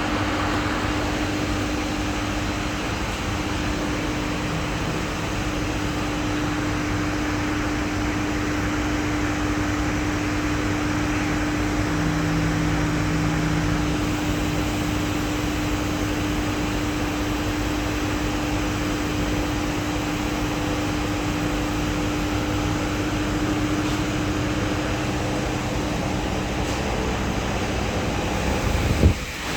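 Steady machine hum with a hiss of moving air, and a constant low tone through most of it.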